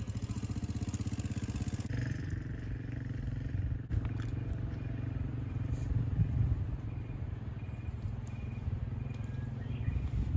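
A low, steady rumble, pulsing evenly for the first two seconds.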